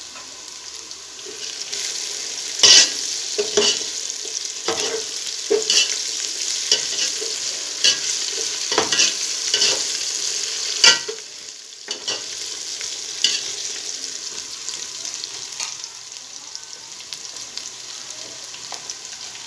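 Onions and whole spices frying in hot oil in a metal pot with a steady sizzle, while a metal ladle stirs them, knocking and scraping against the pot. The sharpest knocks come about three and eleven seconds in. After about twelve seconds only a quieter sizzle is left.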